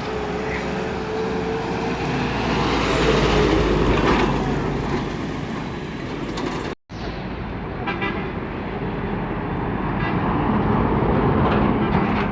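Busy road traffic with heavy trucks driving past; engine and tyre noise swells twice as vehicles go by, and a horn toots.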